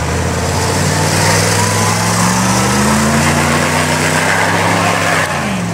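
A drag-racing vehicle's engine at full throttle on a sand drag run, its pitch climbing steadily for about five seconds, then falling sharply near the end.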